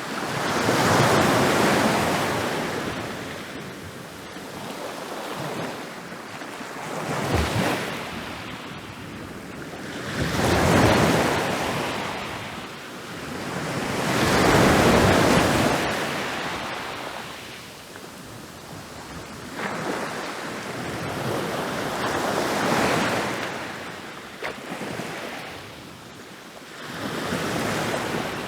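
Ocean waves rolling in and breaking on a beach, the surf swelling and fading in surges every few seconds, with wind.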